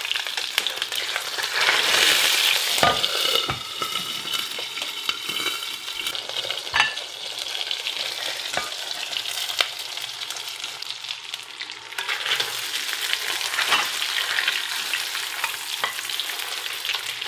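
Beef brain searing in hot beef tallow in a skillet, sizzling steadily, with scattered sharp pops as its moisture spits grease. The sizzle is loudest about two seconds in, while the pan is shaken on the burner.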